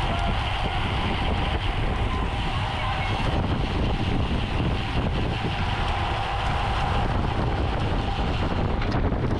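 Steady wind buffeting the microphone of a camera riding on a road bicycle at racing speed, over a low rumble of tyres on the road.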